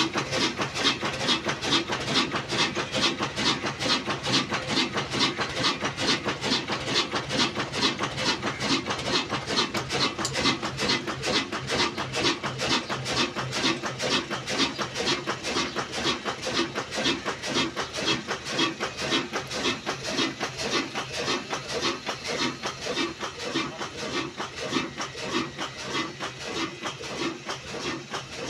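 Old black desi single-cylinder diesel engine running steadily with a fast, even beat while driving an aata chakki flour mill under load.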